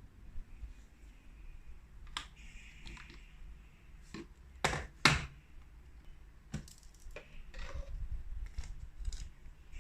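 Scattered plastic clicks and knocks of a cordless hand vacuum being handled, with two louder knocks close together about halfway through; the motor is not running.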